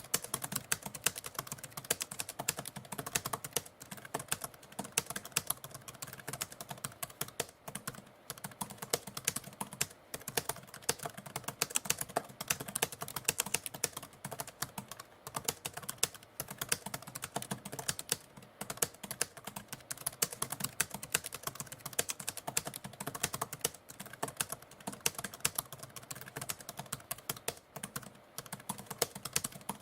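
Typewriter keys clacking in fast, steady typing, many strokes a second, with short pauses now and then.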